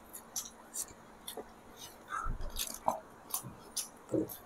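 People chewing soft steamed vegetable momos with chutney close to the microphone: irregular wet smacking and clicking mouth sounds.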